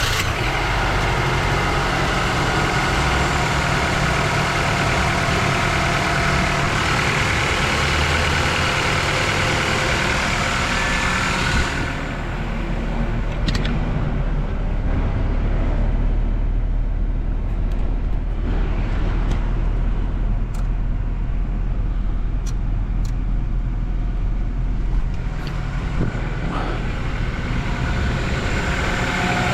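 Honda 2.2 VTEC four-cylinder engine in a 1994 Accord wagon, idling steadily just after a cold start. A bright hissing layer over the engine note drops away about twelve seconds in, leaving a lower, steadier idle with a few light ticks.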